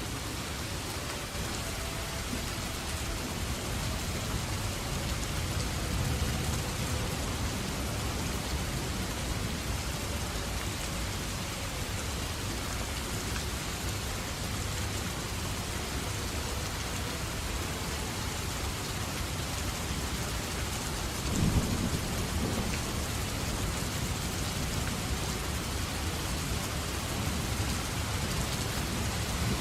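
Steady heavy rain falling, with thunder rumbling low underneath and swelling loudest about two-thirds of the way through.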